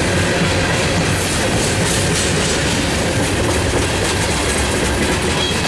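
Freight cars of a long manifest train rolling past at speed, a steady rumble of steel wheels on rail with repeated clicks. The last car goes by near the end.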